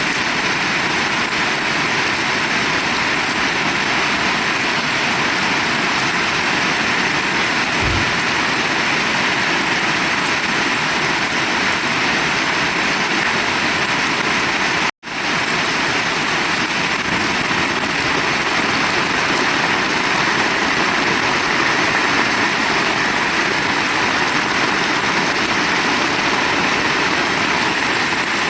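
Heavy rain falling steadily, a dense even hiss, with a split-second break in the sound about halfway through.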